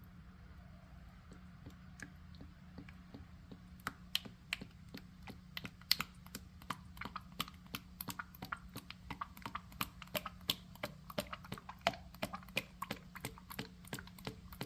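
Motor oil glugging as it pours from a quart bottle into the engine's oil filler: a quick, irregular run of small clicky glugs that starts about four seconds in, over a faint steady hum.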